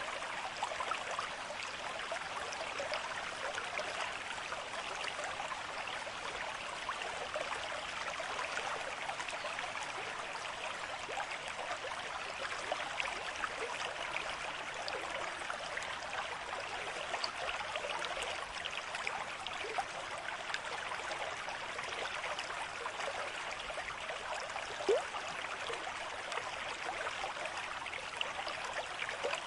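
Stream water flowing steadily over stones, a continuous babble with many small splashes. One brief louder tick stands out near the end.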